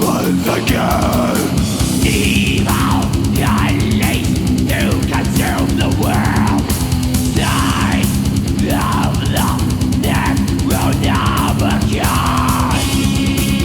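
Death metal music from a 1995 tape recording: distorted guitars over fast drumming, with a lead guitar sweeping up and down in pitch again and again.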